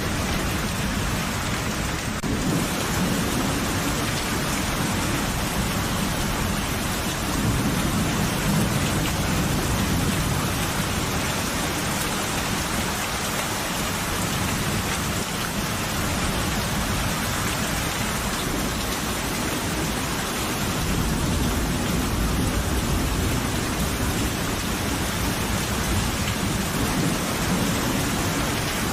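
Steady rain pouring down with low rolling thunder, a continuous hiss under deep rumbles that swell about a quarter of the way in and again past two-thirds of the way through.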